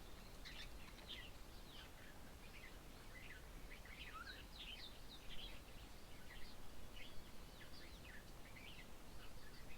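Faint outdoor bird chorus: many short, high chirps and call notes from several birds, overlapping and never stopping, over a light background hiss.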